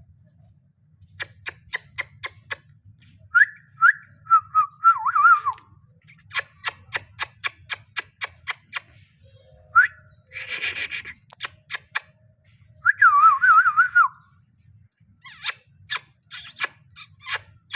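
Parrot whistling short warbling phrases, twice, amid a run of sharp clicks or taps at about three to four a second, with a brief harsh squawk-like burst about ten seconds in.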